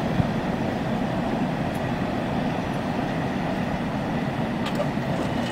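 Steady rumble of a freight train rolling away down the track, with one brief knock just after the start.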